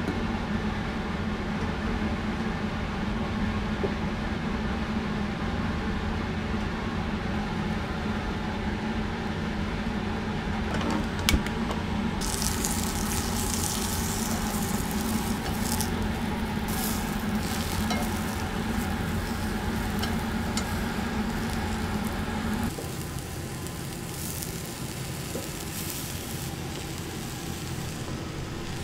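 Food frying in a hot pan: a loud sizzle starts about twelve seconds in and then swells and fades, over a steady low hum. There is one sharp clack just before the sizzle starts, and the hum drops away near the end.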